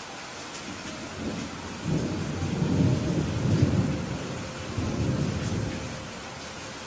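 Steady rain falling, with a roll of thunder that builds about a second in, rumbles in waves for a few seconds and fades back to the rain.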